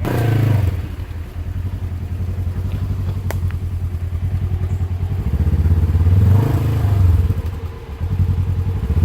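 Polaris RZR side-by-side engine revving under throttle on a steep muddy climb. It rises sharply at the start and again about two-thirds of the way in, eases off briefly near the end, then picks up again. There is a single sharp click about a third of the way in.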